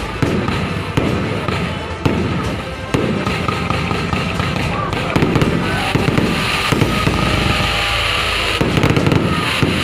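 Fireworks exploding, a bang about once a second at first, then a denser run of rapid cracks in the second half.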